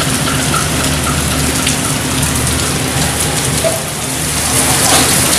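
Heavy rain pouring down, with a steady low hum beneath it from a passenger train rolling slowly through the station.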